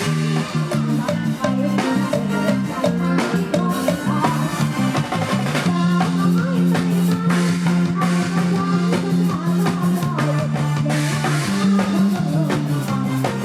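Live Isan band music without singing: a drum kit keeps a steady beat under long held bass notes and a wavering melody line.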